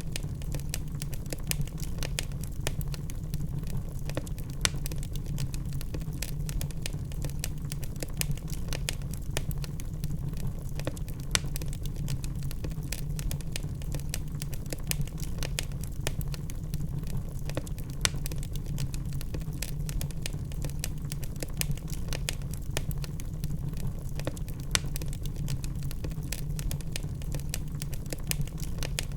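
Wood logs burning in a fireplace: irregular crackles and sharp pops over a steady low rumble of the fire.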